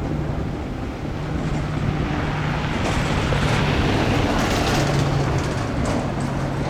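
A vehicle engine running steadily with a low hum, under a rush of wind-like noise that swells in the middle and eases off near the end.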